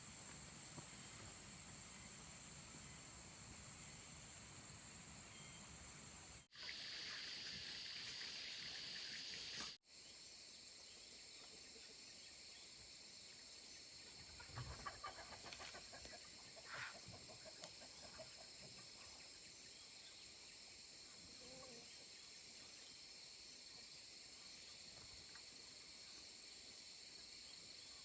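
Quiet farmyard ambience: a steady high-pitched drone of insects, with a hen clucking a few times about halfway through.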